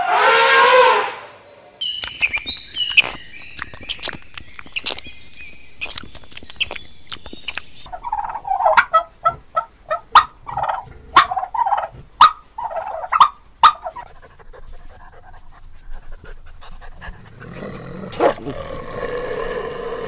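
A domestic turkey tom gobbling in a run of repeated bursts for several seconds in the middle. Before it comes the tail of an elephant trumpeting, then high chirping calls mixed with sharp clicks.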